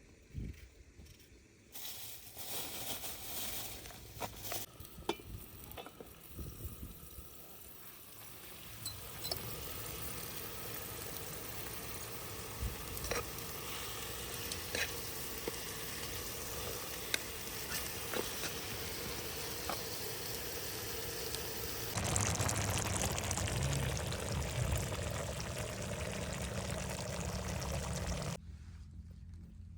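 Food sizzling in a cooking pot, a steady hiss with scattered small clicks. About two thirds of the way in it turns louder with a low rumble, then drops off abruptly near the end.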